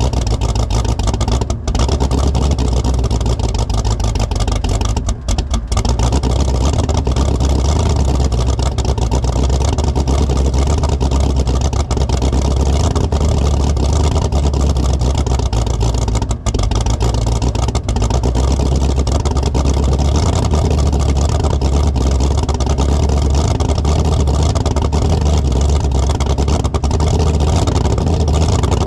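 Fox Body Mustang drag car's engine running steadily on a cold start, with a few brief dips in its sound about 1.5, 5 and 16 seconds in. It is running cold with no choke on a carburettor much too big for it, an 878 CFM carb.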